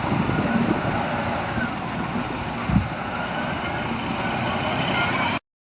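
Logging truck running steadily, with one low thump about halfway through; the sound cuts off suddenly near the end.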